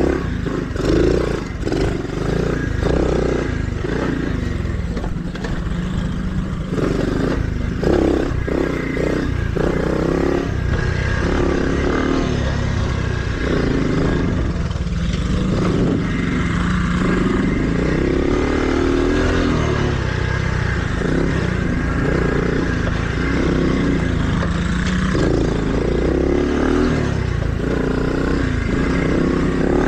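Small mini dirt bike engine being ridden along a trail, its pitch rising and falling again and again as the throttle is opened and closed, with clattering and rumble underneath.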